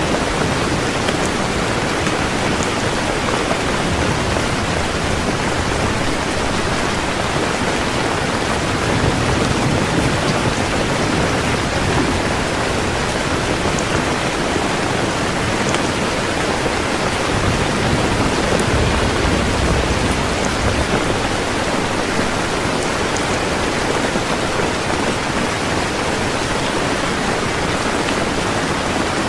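Heavy rain falling steadily and evenly. Twice, about ten seconds in and again around twenty seconds, a low rumble of distant thunder swells under the rain.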